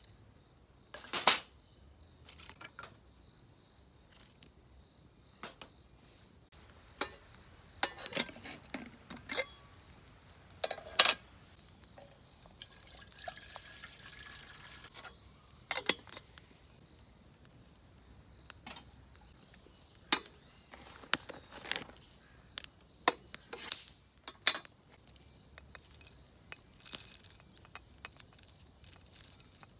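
Liquid being poured into a cup or vessel for about three seconds in the middle, among scattered sharp clicks and knocks of handling tableware and camp gear.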